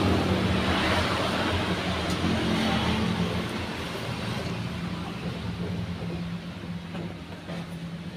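Road traffic: a motor vehicle's engine passing close by, loudest at first and fading away over several seconds into a steady low hum.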